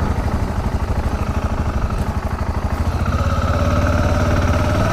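BMW G650GS single-cylinder motorcycle engine running under way, its low pulsing steady. About three seconds in, a steady whine joins it and the sound grows a little louder.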